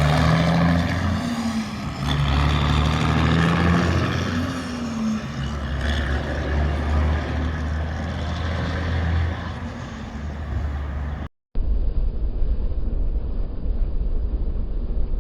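Heavy diesel engine of a cabover semi-truck running under load, its pitch rising briefly twice. A cut about eleven seconds in brings a different recording: a low steady rumble with hiss.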